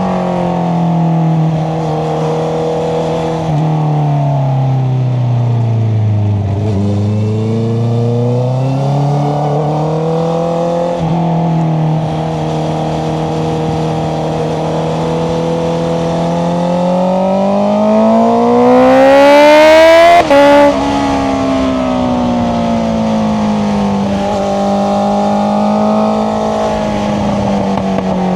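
Honda CBR650R's inline-four engine through an Akrapovic exhaust, revving up and down through the gears as it is ridden. Pitch sinks about a quarter of the way in, climbs again, then builds in one long pull to its loudest about two-thirds through, is cut briefly by a gear change, and falls away.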